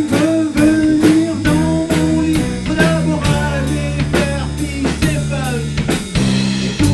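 Band playing an instrumental passage: drum kit keeping a steady beat of about two hits a second under a bass line, with a lead melody line over it.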